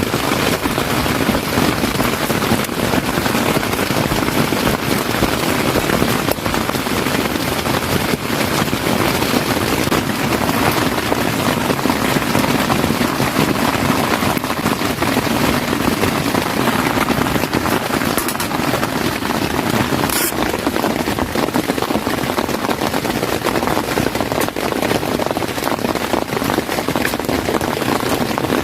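Heavy rain falling steadily, a dense, unbroken patter of countless drops.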